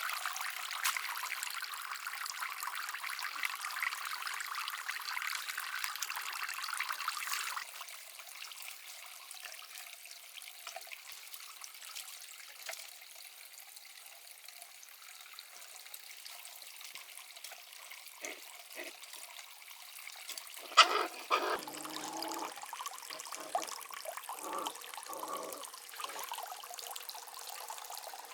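Water trickling and pouring steadily. It drops off sharply about a quarter of the way in and carries on more quietly. About three-quarters of the way through comes a brief, loud pitched sound that falls in pitch, followed by a few smaller ones.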